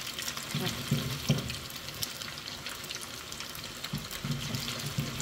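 Pork meatballs frying in a pan of hot oil, sizzling with a steady dense crackle of fine pops.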